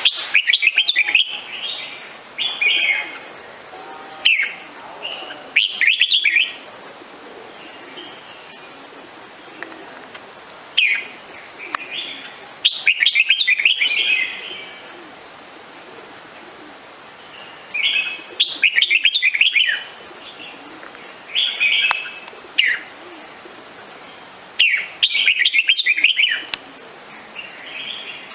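Red-whiskered bulbul singing: short phrases of quick notes, each a second or two long, repeated with pauses of a few seconds between them.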